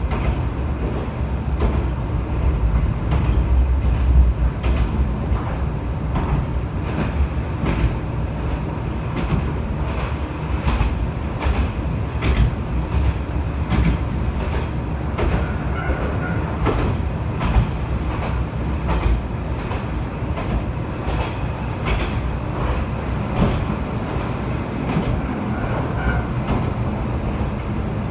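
Kanto Railway KiHa 2400 diesel railcar running along the line, heard from inside the car. There is a steady low rumble, with irregular clicks of the wheels over rail joints and a couple of brief faint squeals in the second half.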